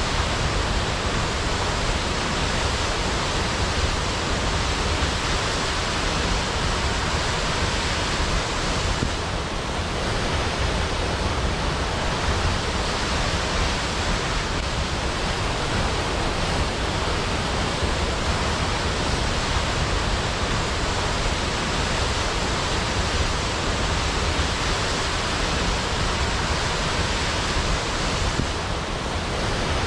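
Waterfall: water falling in a steady, dense rush with no changes.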